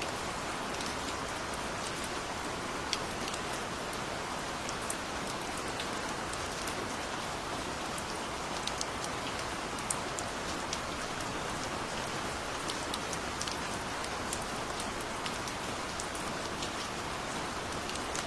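Steady gentle rain falling, an even hiss with scattered individual drops pattering on a surface.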